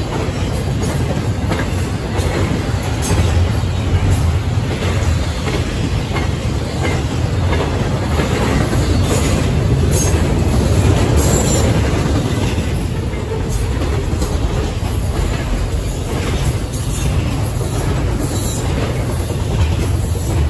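Double-stack intermodal freight train rolling past at close range: a steady rumble of the container-laden well cars, with repeated wheel clicks over the rail joints.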